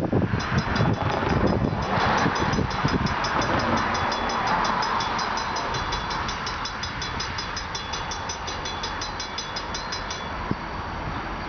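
Freight train rolling past with a steady rumble, while a bell rings rapidly and evenly over it and stops about ten seconds in.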